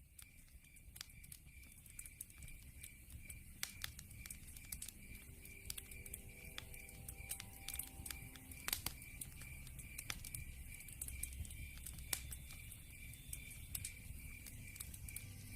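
Log fire crackling with irregular sharp pops over a low rumble, fading up at the start. Behind it, a steady high chirp repeats about three times a second, the added night ambience.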